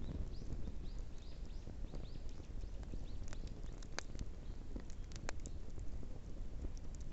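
Wood bonfire burning: a steady low rush with scattered crackles and a few sharp pops, the loudest about four and five seconds in.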